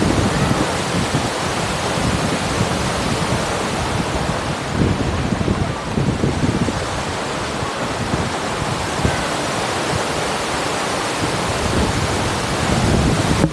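Wind rushing over and buffeting a microphone: a loud, steady rush with irregular low gusty rumbles.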